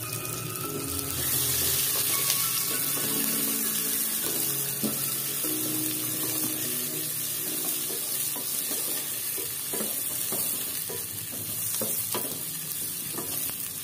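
Sliced onions sizzling in hot oil in a pot, stirred with a wooden spatula, with a few light knocks of the spatula against the pot in the second half.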